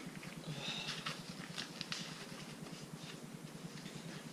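Faint scratching and small clicks of hands working on an engine part, likely wiping or scraping debris off it before sealant goes on, over a steady low hum.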